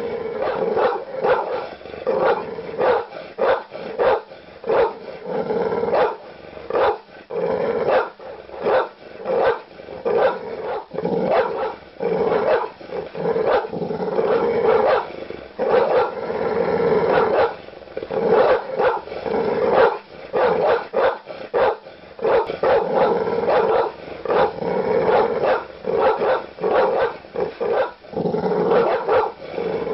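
Large dogs barking aggressively and loudly, a rapid, continuous run of deep barks with barely a pause between them.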